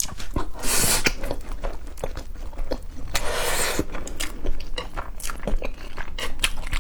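Close-miked mouth sounds of someone eating wide spicy fire-chicken noodles: two long slurps, about a second in and again after three seconds, between wet chewing clicks.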